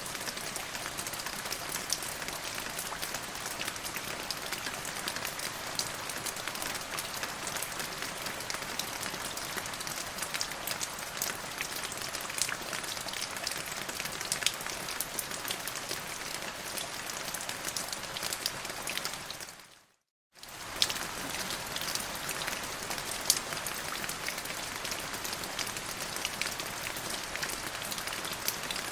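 Steady rain falling: a dense, even hiss with many individual drops ticking through it. About 20 seconds in it fades out to silence for under a second, then returns.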